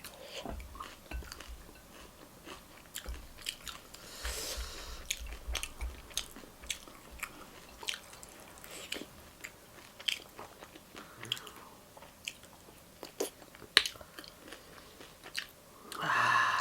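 A person chewing and biting food, with many crisp crunches and clicks.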